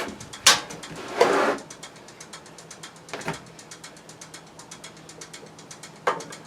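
Tools knocking and scraping on metal parts during hands-on work on a small engine: three sharp knocks and a short scraping rush, over a steady fast ticking of about seven clicks a second.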